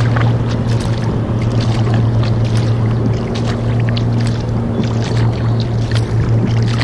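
Kayak paddling on river water: irregular splashes and drips from the paddle strokes, over a steady low drone.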